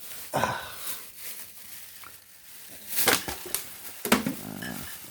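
Paper and packaging rustling and crinkling as things are handled and dropped, with two sharp knocks about three and four seconds in.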